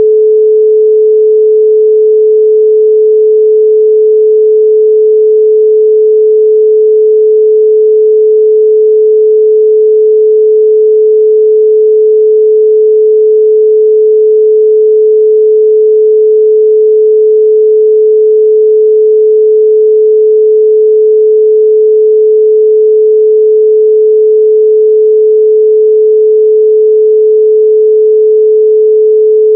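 A steady 432 Hz pure sine tone, one unchanging pitch held without a break.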